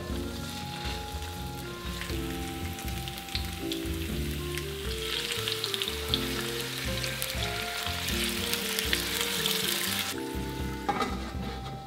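Stuffed opo squash rounds frying in oil in a wok. The sizzle swells to a loud hiss for several seconds as water is poured into the hot pan, then dies back near the end. Background music plays throughout.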